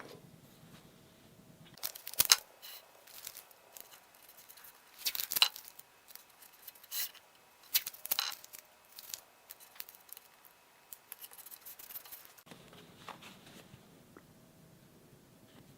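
Irregular short, sharp scrapes and clicks of hand work, loudest about two and five seconds in. A low steady hum is heard only near the start and from about twelve seconds on.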